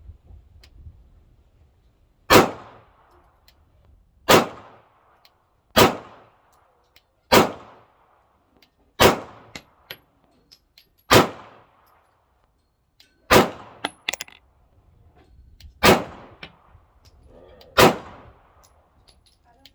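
Glock 26 clone 9mm pistol fired in slow, single shots, about nine shots roughly two seconds apart, each with a short ringing tail.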